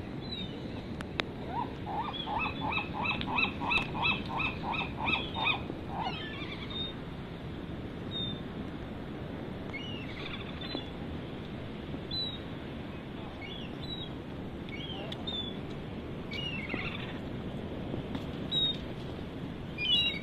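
Birds calling: a fast run of about a dozen repeated pitched calls early on, then scattered short chirps. Underneath is a steady rush of surf and wind.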